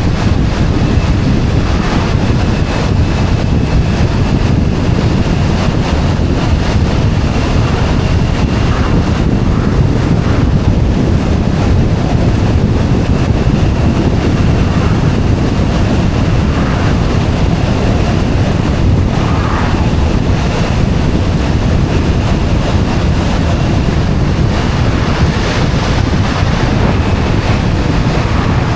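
Wind rushing over the microphone of a moving motorcycle, a steady low rumble, with the motorcycle's engine and road noise beneath it and a faint steady high whine.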